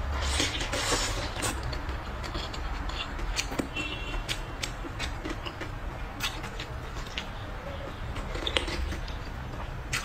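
A person eating: chewing, with scattered small clicks and taps throughout.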